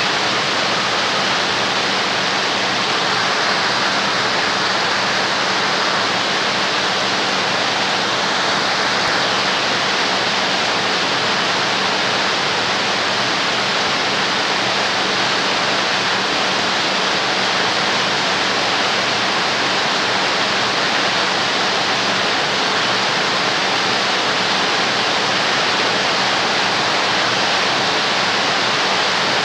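Heavy rain falling on a corrugated roof, a loud, steady, dense hiss with no let-up, with water streaming off the roof edge.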